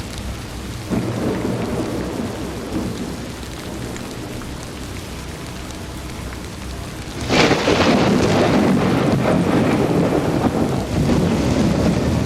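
Steady rain with thunder rumbling; about seven seconds in a loud thunderclap breaks suddenly and rolls on.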